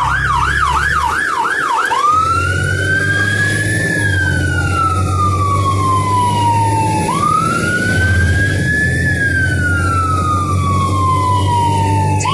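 Fire engine siren on a code 3 run. It starts in a fast yelp, about four to five warbles a second, then about two seconds in switches to a slow wail that rises and falls twice and begins to rise again at the end. The truck's engine runs steadily underneath.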